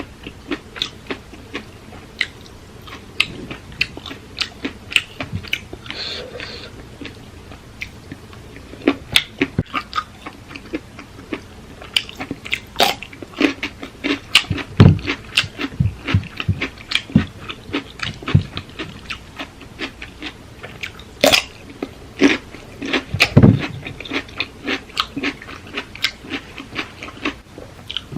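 Close-up chewing and crunching of papaya salad: many quick, irregular crisp bites and mouth sounds, with a couple of heavier dull thumps partway through.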